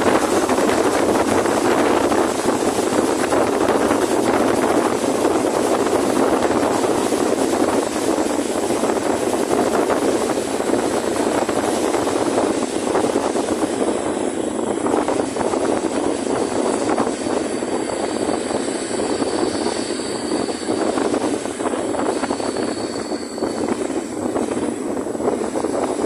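Historic passenger train running, heard from an open coach window: a steady rush of wheel-on-rail noise and wind, easing a little in the second half, with a faint high whine for a few seconds past the middle.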